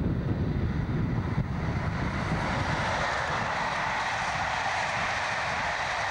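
Electric locomotive-hauled passenger train passing close by at speed. A low rumble fades about two seconds in, giving way to a steady rushing hiss of coaches running over the rails.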